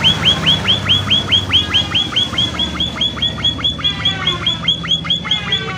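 Emprit finch calling in a fast, steady string of short downward-sweeping notes, about five a second, the lively 'gacor' calling used as a lure to draw other emprit into answering. Near the end a second run of notes overlaps the first.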